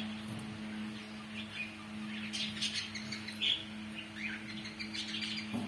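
Small birds chirping repeatedly in short, high notes over a steady low hum.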